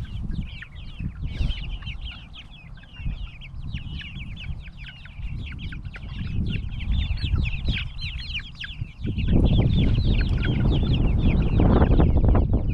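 Backyard egg-laying chickens calling and squawking over food, many short high calls overlapping. About nine seconds in, a louder low rumbling noise joins them and stays.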